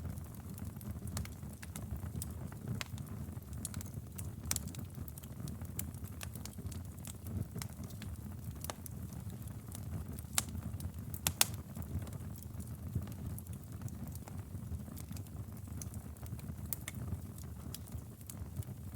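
Campfire burning with a steady low rumble and irregular sharp crackles and pops of wood, a close pair of louder pops about ten seconds in.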